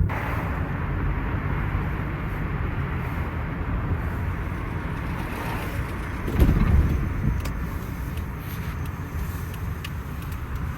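Steady rumble of road traffic, swelling louder briefly about six seconds in as a vehicle passes.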